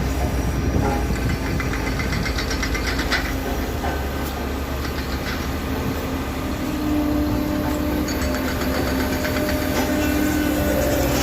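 Heavy diesel earthmoving machinery running steadily, with stretches of rapid rhythmic metallic clatter.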